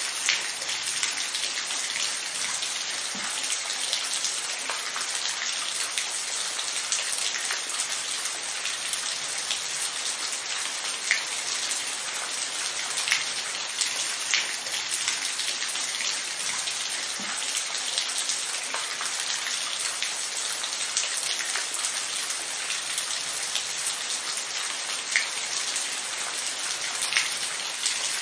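Steady rain falling, an even hiss with many distinct drops ticking on a surface close by.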